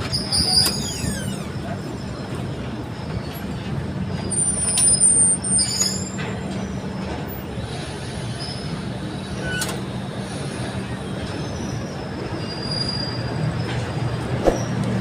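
Passenger train running on the rails: a steady rumble and hum, with high-pitched wheel squeals that are loudest about four to six seconds in, and a few scattered clicks.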